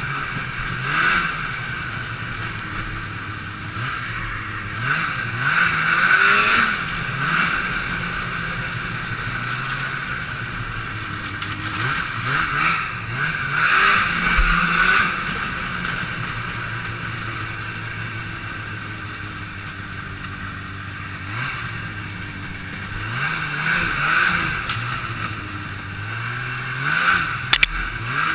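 Two-stroke Ski-Doo snowmobile engine revving up and easing off again and again as the sled is ridden, with rushing noise swelling each time it pulls. There is a short sharp knock near the end.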